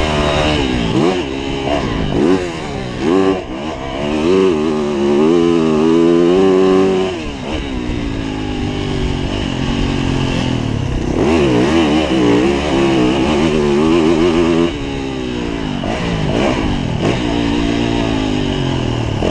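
Yamaha YZ450F motocross bike's single-cylinder four-stroke engine revving hard and backing off again and again as the bike accelerates, shifts and rolls off the throttle, its pitch climbing and falling repeatedly.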